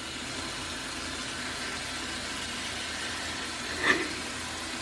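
Tap water running steadily into a sink, with one short louder sound about four seconds in.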